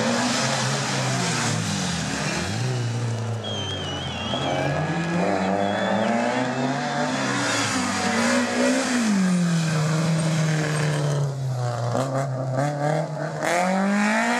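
Rally car engine revving hard and dropping back again and again through gear changes and corners, with brief high tyre squeals a few seconds in. The revs climb steeply near the end.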